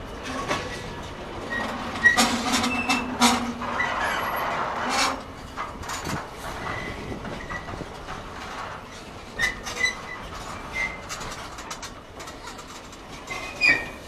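Freightliner bogie hopper wagons rolling past on the rails, their wheels clicking over rail joints with brief high wheel squeals. The clatter is loudest about two to five seconds in.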